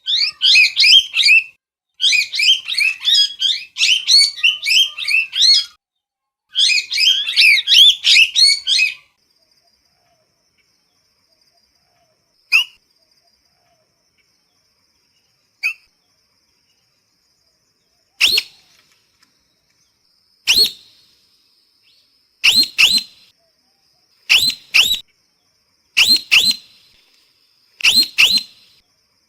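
Parrot calling: a dense run of rapid chattering squawks for the first nine seconds or so, then after a pause single sharp calls, and in the second half short loud calls repeated about every two seconds. A faint steady high whine runs beneath from about nine seconds in.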